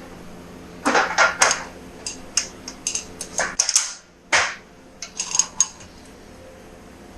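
Irregular clicks and light metallic clinks of hand tools and metal parts being handled, a quick run of sharp ticks in the first half, a few more after a short pause.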